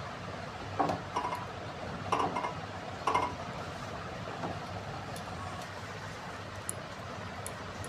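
A few light clinks and knocks of kitchen utensils against dishes, bunched in the first three seconds or so, over a steady background hum.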